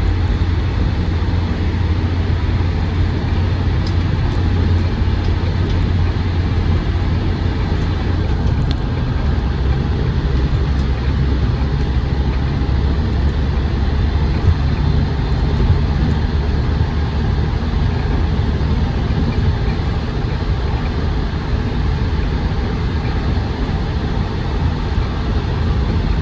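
Steady cabin drone of a Land Rover Defender 110 TD5 on the move: its five-cylinder turbodiesel engine and road noise make an even, deep rumble, with a couple of small knocks midway.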